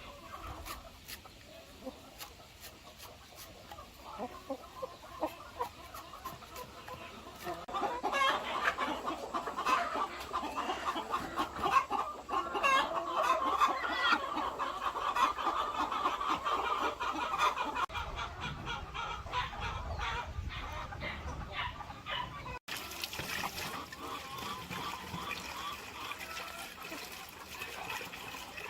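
A flock of laying hens clucking, with scattered sharp clicks at first. The clucking becomes louder and busier about a quarter of the way in and changes abruptly near the end.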